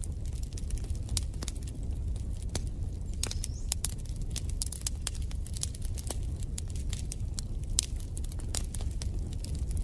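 Wood fire crackling in a fireplace: irregular sharp pops and snaps over a steady low rumble of burning. A brief high whistle sounds about three seconds in.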